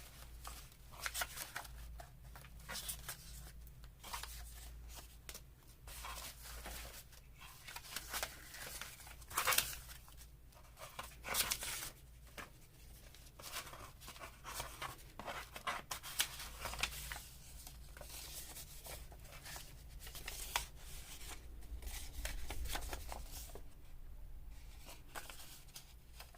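Paper and card ephemera rustling, sliding and tapping as loose sheets are sorted through by hand, in irregular short rustles with a few sharper taps, over a faint low steady hum.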